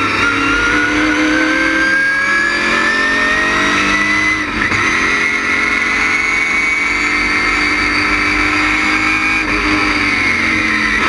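LS6 V8 race engine with an ASA cam under hard acceleration, revs climbing steadily for about four seconds. A brief dip in revs follows, then a slower climb, and the revs fall away near the end.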